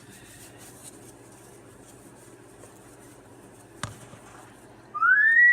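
Faint scratching over a steady low hum, with a single sharp click about four seconds in, then near the end a Moluccan cockatoo's call rising in pitch.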